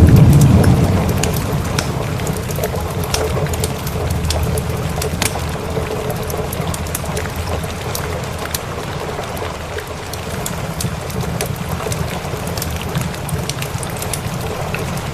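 Steady rain with a low roll of thunder that fades away over the first two seconds. A log fire crackles throughout with scattered sharp pops.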